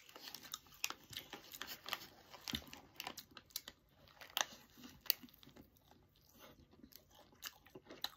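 A person biting into a soft egg toast sandwich and chewing close to the microphone: scattered wet mouth clicks and smacks, with the paper wrapper crinkling now and then.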